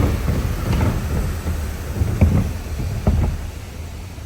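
Low rumble of a car rolling along a road, heard inside the cabin, with four sharp knocks and thumps about a second apart.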